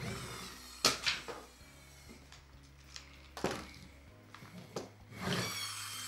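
Short plastic knocks and clatter from toy construction vehicles being handled, a couple about a second in and another about three and a half seconds in, with a longer scraping stretch near the end, over faint background music.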